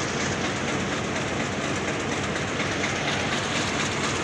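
Pakistan Railways passenger train running past, its coaches' wheels clattering steadily on the rails.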